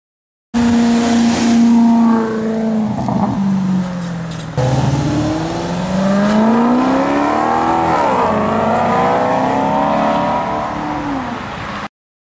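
Maserati GranTurismo MC Stradale's 4.7-litre V8 revving: the pitch holds high, then falls away. After a sudden cut it climbs again, with a brief dip about eight seconds in, and falls off near the end. The sound starts and stops abruptly.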